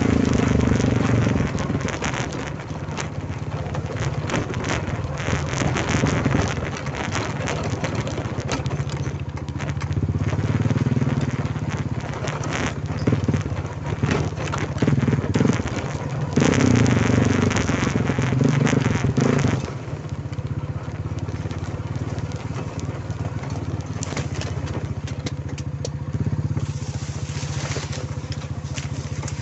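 Quad bike engine running as it is ridden, with rough noise over it. It gets louder for a few seconds at the start and again about two-thirds of the way through.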